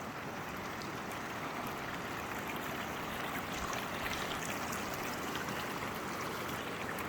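Steady rushing of water flowing over rocks, like a stream, with a few faint clicks.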